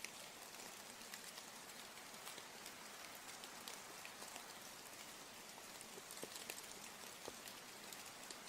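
Steady rain falling, with many separate drops ticking against a soft, even hiss.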